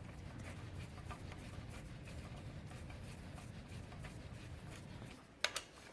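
Faint handling of bolts and a hand wrench on a hydraulic log splitter's motor-to-pump mounting, with light scattered ticks over a low rumble. Two sharp clicks come close together about five and a half seconds in.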